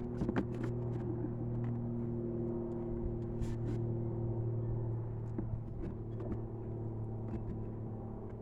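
A car's steady low mechanical hum, with scattered light clicks and knocks over it.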